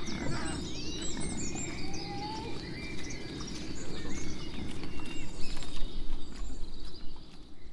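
Small birds chirping and calling over a steady outdoor background rumble, with short rising and falling chirps throughout.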